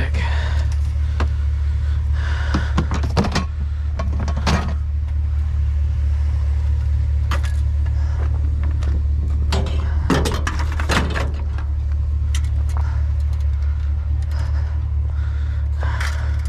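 Scrap and junk being handled while digging through a dumpster: scattered clatters and knocks at uneven intervals, with a cluster near the start, a few around the middle and more near the end, over a steady low rumble.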